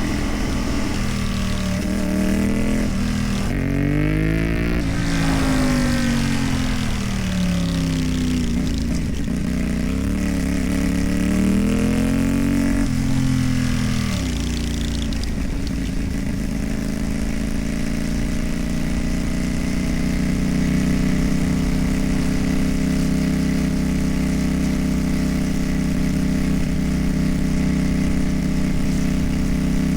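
CFMoto 450MT's parallel-twin engine through a modified exhaust. For the first half its pitch rises and falls repeatedly with the throttle, then from about halfway it holds a steady note.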